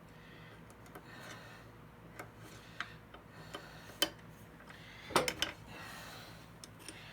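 Scattered small metallic clicks and taps of hand tools working the blade-plate screws of a thickness planer's cutterhead, with a quick cluster of louder clicks a little after the five-second mark.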